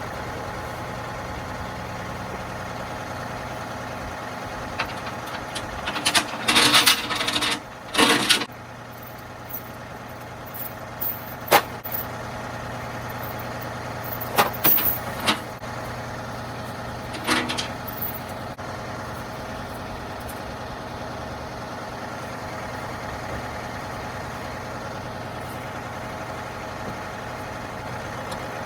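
An engine idling steadily, with several bursts of metal clanking and rattling from parts being handled on a broken riding mower, the loudest a few seconds in.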